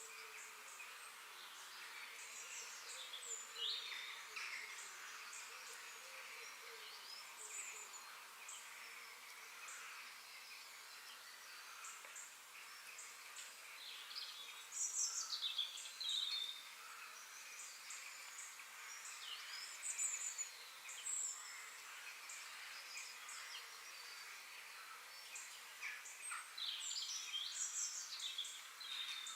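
Forest ambience of several birds chirping and calling in short quick notes over a steady high hiss, with louder bursts of calls about halfway through and again near the end.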